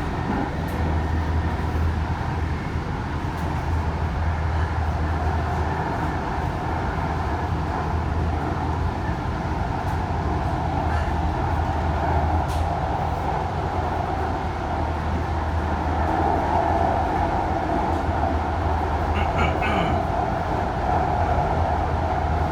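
VTA light rail car running along the track, heard from inside: a steady rumble and hum of the wheels and traction motors that grows a little louder in the last few seconds.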